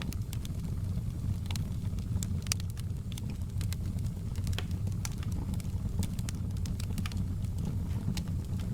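Wood fire burning in a fireplace, with a steady low rumble of the flames and frequent irregular crackles and pops.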